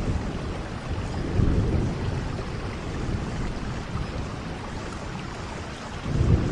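Steady rain, an even hiss, with low rumbles that swell about a second and a half in and again near the end.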